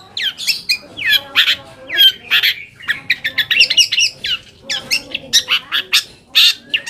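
Long-tailed shrike (cendet) singing a fast string of short, harsh chattering notes mixed with quick downward-slurred whistles, with a rapid burst of notes in the middle.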